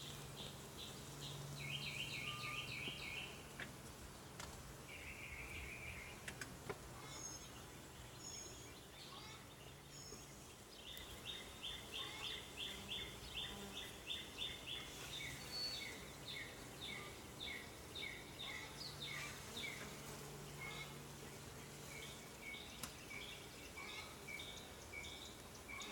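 Birds singing trains of rapid, repeated chirping notes: short runs early on and a long, continuous run from just before halfway. Beneath them is a low, wavering hum of honeybees around the open hive.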